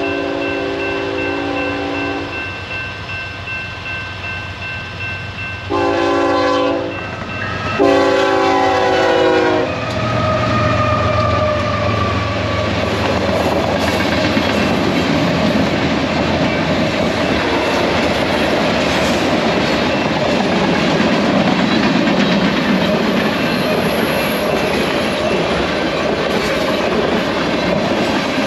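BNSF freight locomotive's air horn sounding for a grade crossing: a blast that ends about two seconds in, then two more blasts around six and eight seconds in. After that the train passes, a steady rumble of locomotive and cars with wheels clacking over the rail joints.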